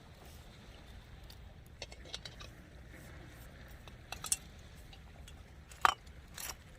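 Scattered light clinks and knocks of eating utensils against cookware, the loudest about six seconds in, over a low steady rumble.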